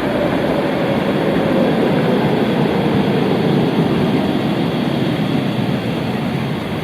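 Tram passing by: a steady rumble of wheels on rails with a motor whine that slowly falls in pitch. It is loudest in the middle and fades near the end.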